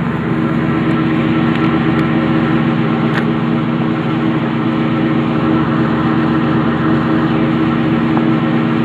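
1999 Ford Mustang GT's 4.6-litre V8 idling steadily through its stock exhaust.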